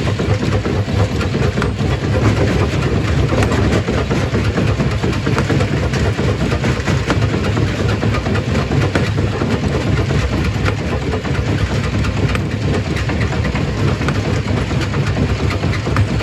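Stone crusher running, with a steady low hum and a dense, continuous clatter of rock being broken and moved through the machine.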